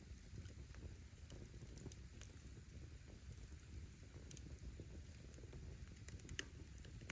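Wood campfire burning: a low steady rumble of flame with scattered sharp crackles and pops of the firewood, the clearest a little after six seconds in.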